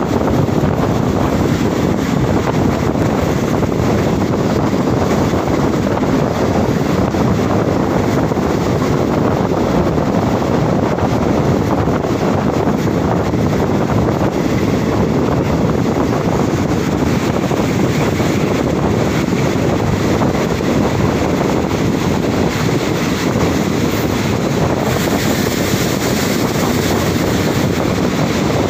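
Steady rush of wind and wheel-on-rail noise from the open door of a moving passenger train coach, with wind buffeting the microphone. A higher hiss joins near the end.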